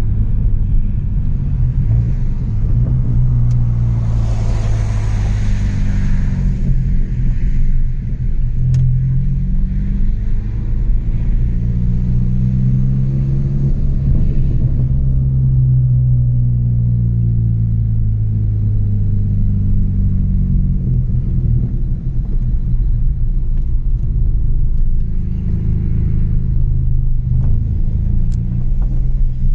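Chevrolet Astra 2.0's four-cylinder engine through a straight-pipe exhaust, a deep steady drone while driving, its pitch rising and falling gently with engine speed. A brief rushing hiss comes about four to six seconds in.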